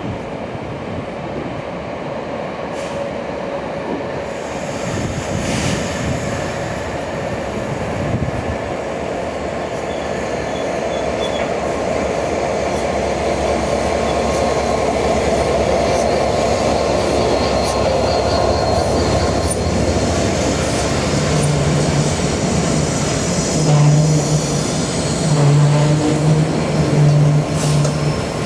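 A train running along the rails, its wheel and running noise building steadily louder. Over the last third a low tone pulses on and off several times.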